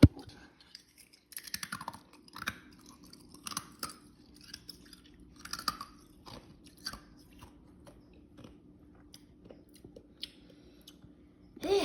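A person chewing and eating soup close to the microphone: irregular mouth and chewing sounds with small clicks, and one sharp click right at the start.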